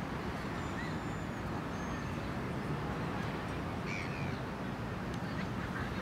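Short, caw-like bird calls, a few of them, the clearest about four seconds in, with faint high chirps, over a steady wash of outdoor background noise.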